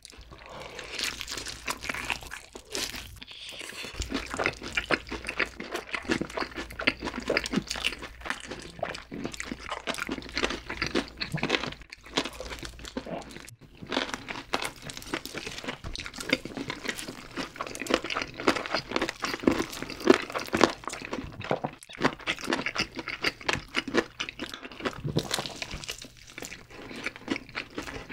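Close-miked crunching and chewing of crispy fried chicken, dense crackles of the fried batter at each bite, with a few brief pauses.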